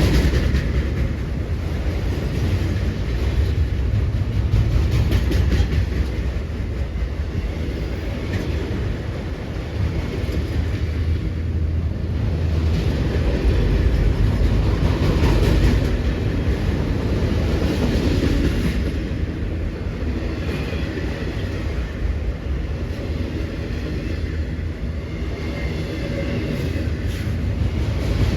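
Freight train's cars rolling past on the rails, a steady rumble.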